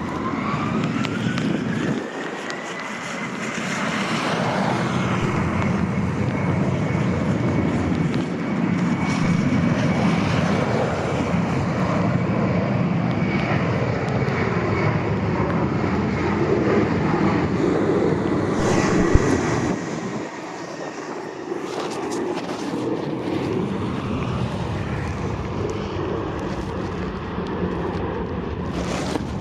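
Airliner engines running: a high whine rises over the first few seconds and then holds steady over a dense rumble, with wind buffeting the microphone. The rumble eases about two-thirds of the way through.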